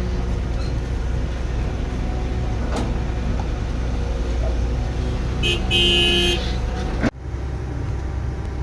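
Heavy construction machinery engine running steadily, with a brief two-part horn toot about five and a half seconds in. The engine sound drops and changes abruptly a little after seven seconds.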